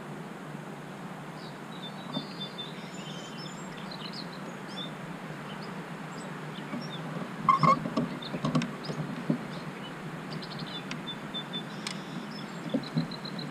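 Small birds chirping here and there over a steady background hiss, with a few sharp knocks and clatter about halfway through and again near the end as a landing net and a bass are handled on a kayak.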